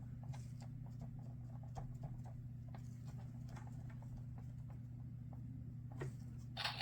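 Faint steady low hum with scattered light clicks and taps, a slightly louder click about six seconds in, and a bright, loud electronic sound starting just at the very end.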